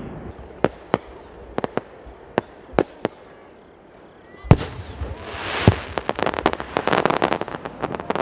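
Aerial fireworks shells bursting: a few scattered sharp reports, then a single loud boom about four and a half seconds in, followed by a dense string of rapid reports as a volley of shells goes off.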